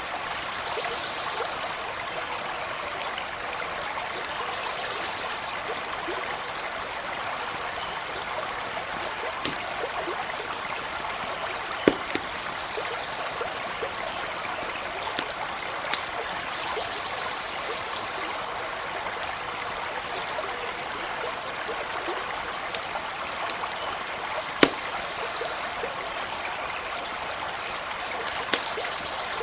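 Brook running steadily, with a handful of sharp pops from a crackling campfire scattered through it.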